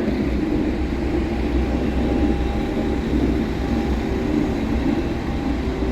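Train at the station platform: a steady low rumble with a faint steady tone above it.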